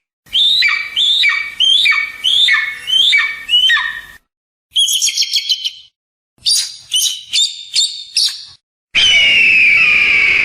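Eagle calls in separate runs broken by sudden silences: first about seven downward-sliding cries in quick succession, then two bouts of rapid high-pitched chittering, and near the end one long steady cry.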